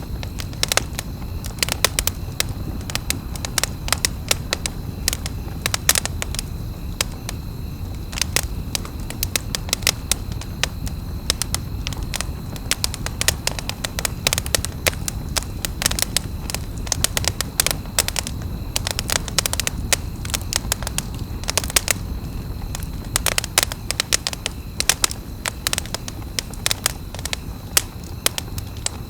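Campfire crackling: frequent irregular sharp pops and snaps of burning wood over a steady low rumble of the flames.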